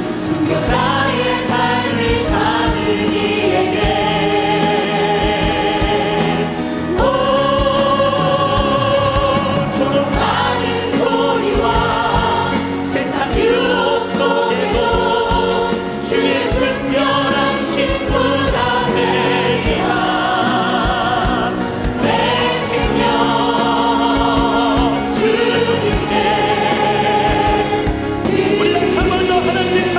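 A choir singing a gospel hymn with vibrato on held notes, accompanied by a band with a steady drum beat.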